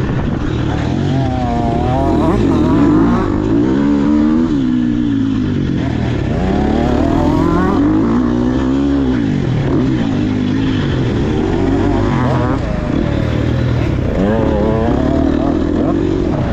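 KTM SX150 single-cylinder two-stroke dirt bike engine being ridden hard, its pitch climbing and dropping again and again every second or two as the throttle is worked on and off.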